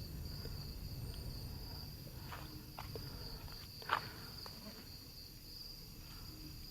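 Insects chirring steadily in one high, even tone, with a few faint clicks or knocks, the sharpest about four seconds in.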